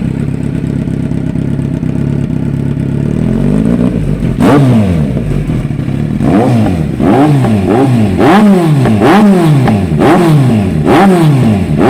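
2019 Kawasaki Z900's inline-four engine breathing through an SC-Project aftermarket exhaust, idling steadily, then revved once about three seconds in. In the second half it is blipped over and over, the revs rising and falling about every two-thirds of a second.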